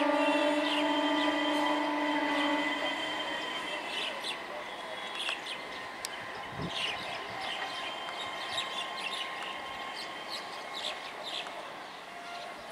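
An EMU electric local train's horn holds a steady chord that ends about three seconds in. The train's running noise on the track then fades as it moves away, and birds chirp.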